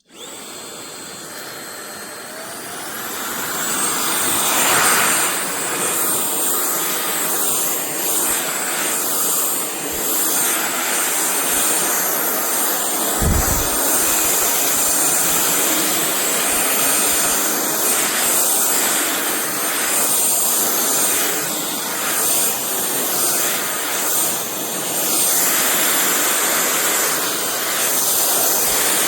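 A frecaer cordless stick vacuum cleaner running, a steady airy suction rush with a thin high motor whine. It grows louder over the first few seconds, then holds steady with small rises and falls, and there is a short low bump about halfway through.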